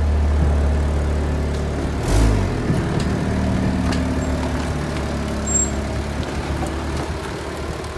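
1999 Saturn SL2's inline-four engine running rough as the car drives by, chugging like a lawnmower, with the engine note shifting about two seconds in. The owner blames a poorly running engine and suspects that long-unchanged spark plugs are part of the cause.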